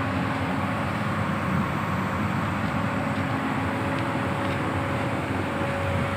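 Komatsu PC200-7 excavator's six-cylinder diesel engine running steadily at idle, an even mechanical hum with a few faint ticks about two thirds of the way through.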